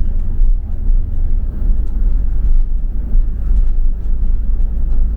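Double-decker bus running, heard from on board: a steady low rumble of engine and road noise.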